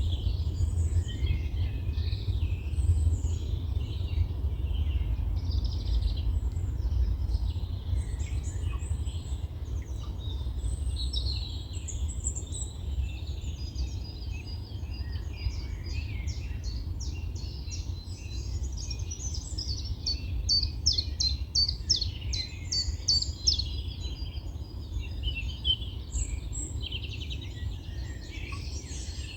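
Several wild birds singing and calling over one another, with a long run of quick repeated sharp notes about halfway through. A steady low rumble of wind on the microphone lies underneath.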